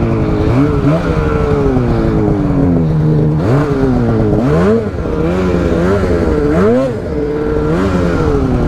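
Polaris mountain snowmobile's two-stroke engine being ridden hard, its pitch rising and falling again and again as the throttle is blipped on and off.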